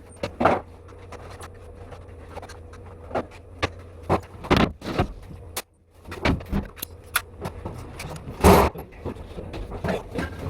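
Scattered knocks and clicks of interior carpentry work on a ceiling, irregular and of varying strength, over a steady low hum. The sound drops out briefly about halfway through.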